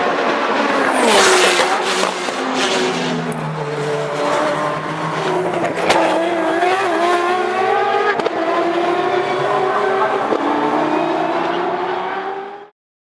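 Mazda 3 race car's 20B three-rotor rotary engine running hard, its pitch rising and falling repeatedly through revs and gearshifts, with a couple of sharp cracks midway. The sound cuts off suddenly near the end.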